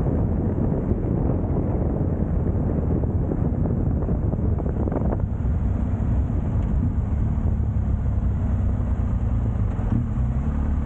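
Motorcycle riding on the road: engine running under wind rushing over the microphone. About halfway through the wind eases as the bike slows, and the engine's steady hum comes through more clearly.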